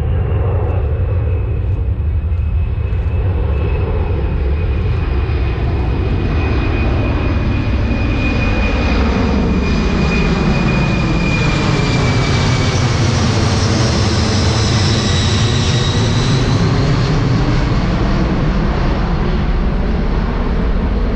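C-17 Globemaster III's four turbofan engines passing overhead: a loud, steady rumble with a turbine whine that slides slowly lower in pitch, strongest around the middle.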